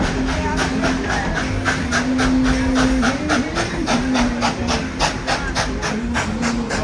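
Steam locomotive chuffing steadily at about five exhaust beats a second while pulling the train. A low, wavering tone runs underneath.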